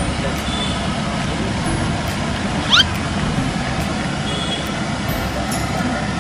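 Steady street traffic noise, with a short, sharp rising squeak about three seconds in.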